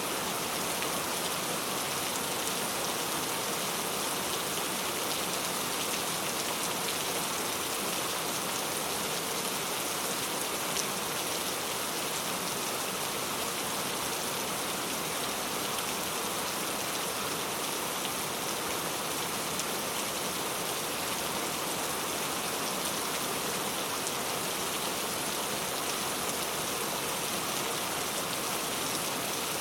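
Steady rain falling and pattering on surfaces, an even hiss of many drops without letup.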